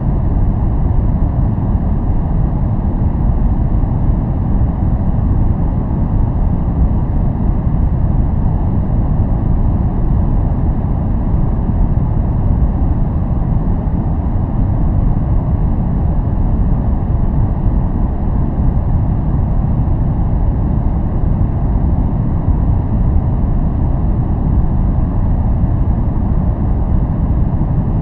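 Steady noise track sold as white noise: an even, deep rumbling hiss, heaviest in the bass with little treble, that never changes.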